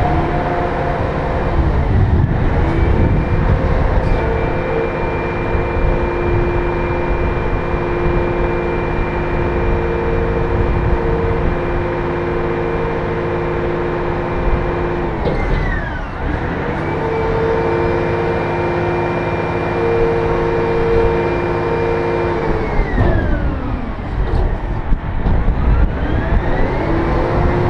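Cat 740B articulated dump truck's diesel engine running hard. It revs up and holds at high speed for many seconds, drops briefly about halfway through and revs up again, holds, then drops once more near the end.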